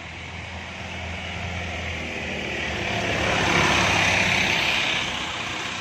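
A road vehicle passing close by: its engine and tyre noise grows louder, peaks about four seconds in, then starts to fade.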